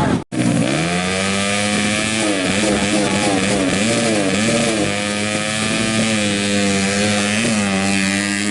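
Racing motorcycle engines running at high revs, the pitch wavering up and down as the bikes lap the circuit. The sound cuts out for an instant near the start, then comes back with a rising rev.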